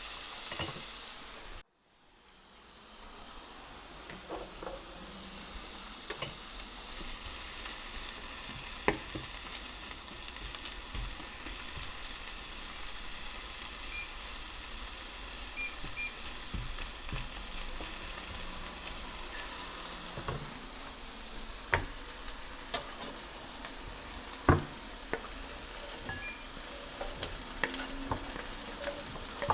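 Food sizzling in a hot frying pan for fajitas, with scattered clicks and knocks of a utensil stirring it. The sizzle cuts out briefly about two seconds in and then builds back.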